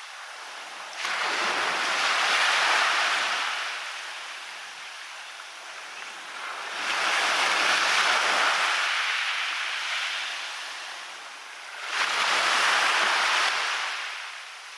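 Sea waves breaking and washing up a beach, three in turn about five to six seconds apart, each coming in suddenly and then hissing away slowly.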